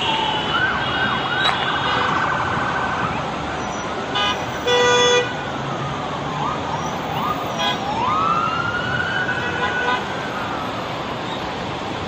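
Emergency vehicle sirens wailing, rising and falling in pitch over steady background noise, with a short horn blast about four seconds in and a louder, longer one right after it.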